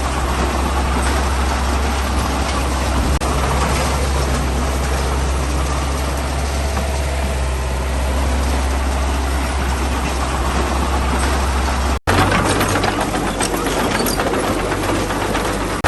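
Heavy diesel earthmoving machinery running steadily with a deep low drone. About twelve seconds in the sound cuts briefly, then resumes with a slightly higher engine note and a quick clicking and rattling on top.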